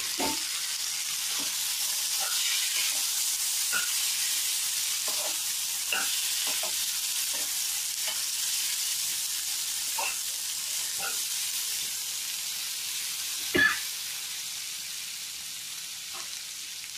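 Boiled black-eyed peas sizzling in hot oil with a fried onion, green chilli and curry leaf tempering, stirred with a steel spoon that knocks and scrapes against the metal pan now and then, with one louder knock about two-thirds through. The sizzle slowly fades toward the end.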